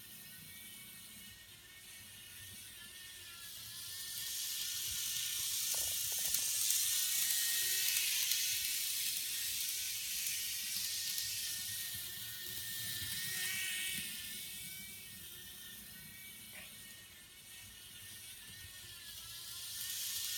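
N-gauge model of a Hankai Tramway Mo161 tram running on its track: a high motor whir with light wheel-on-rail clatter, swelling and fading several times as it comes near and moves away.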